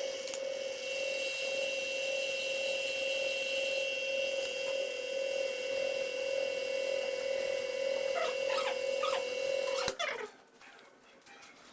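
Weight-loaded oil friction test machine running under load with a steady high whine, a few short chirps creeping in near the end; about ten seconds in the pitch drops and the machine stops.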